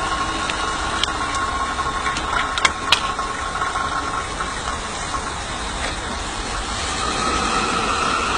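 Steady hiss and hum of a coal-fired miniature steam locomotive raising steam, with a few sharp metallic clinks about one, two and a half and three seconds in as coal is shovelled into the firebox. A faint whine fades out about halfway, and a stronger hiss comes up near the end.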